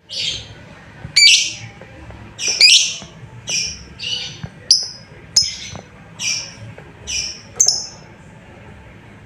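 Lovebird giving a run of about ten harsh, shrill calls, one every second or less, the later calls shorter and higher: calls to a companion bird.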